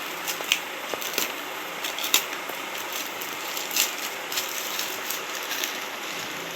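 Parcel packaging being opened by hand: irregular crinkling, crackling and clicks of the wrapping, with two sharper cracks about half a second and two seconds in.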